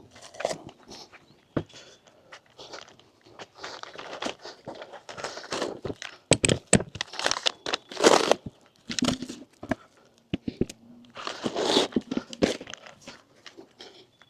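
Packaging being handled and pulled apart: irregular crinkling, crunching and tearing with scattered sharp knocks, busiest in the middle and again near the end.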